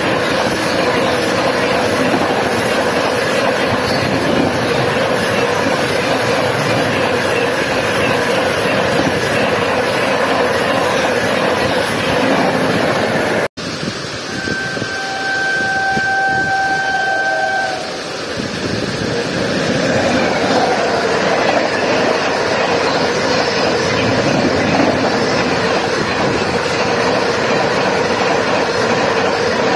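An express train's coaches rush past at speed in heavy rain. After a sudden cut about halfway through, an approaching train sounds its horn in one steady blast of about three seconds, and then its coaches roll past.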